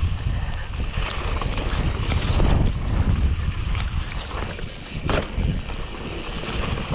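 Downhill mountain bike rattling over wet rocks, with scattered clicks and knocks from the bike over a heavy low rumble of wind buffeting the microphone.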